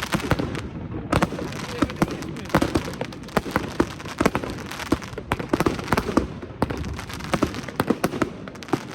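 Evolution Snowstorm 2.0 firework going off: an irregular run of sharp bangs and crackling pops, several a second, over a steady noisy background.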